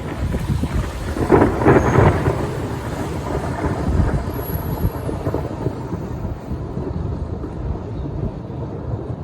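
A thunderclap rumbling, loudest about one to two seconds in, then rolling on and slowly dying away.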